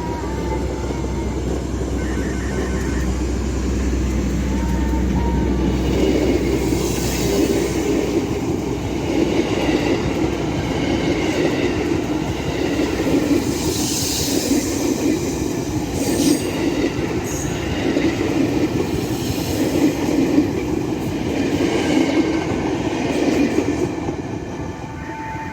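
A train running past close by. A low steady drone in the first several seconds gives way to the wagons rolling past, their wheels rumbling on the rails with high hissing squeals every few seconds.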